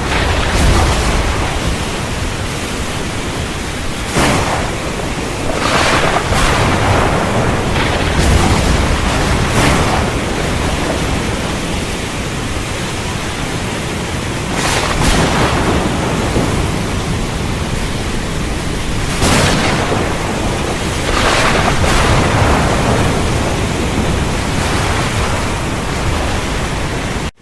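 Heavy rain falling steadily, with thunder rumbling at times and several brief, sharper surges in the downpour.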